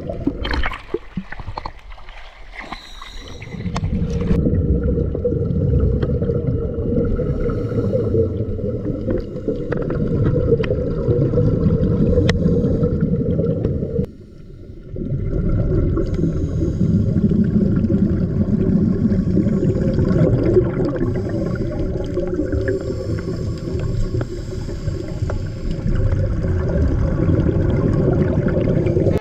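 Muffled water noise: gurgling and sloshing over a dense low rumble. It is lighter and patchier in the first few seconds, comes in strong at about four seconds, and drops off briefly about halfway through before resuming.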